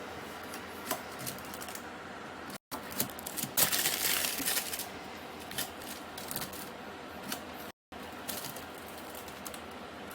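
Kitchen handling sounds: scattered light clicks and taps, with a louder stretch of crinkling and scraping about three to five seconds in.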